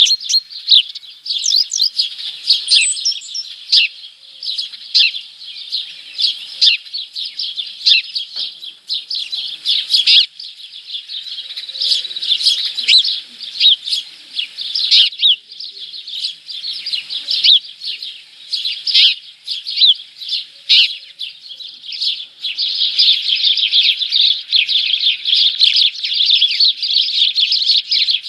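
Small songbirds chirping and calling in a dense, continuous chatter of short high notes, which thickens into an unbroken twittering near the end.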